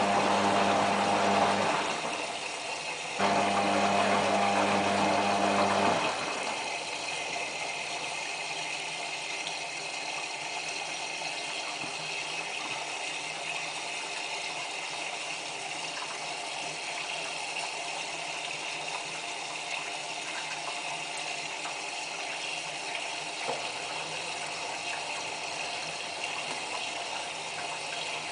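Whirlpool AWM4066 washing machine filling for its final rinse: water running in with a low electrical hum. It cuts out about two seconds in, starts again a second later, then stops about six seconds in, leaving a quieter steady hiss. It stops and starts like this because the bulky blanket keeps soaking up the water.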